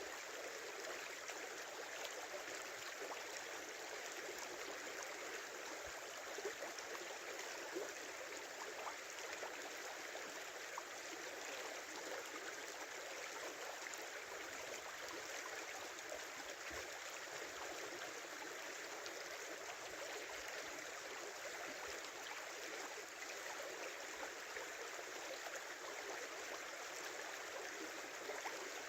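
A small winter river flowing, a steady rushing and babbling of water, with a few brief louder splashes.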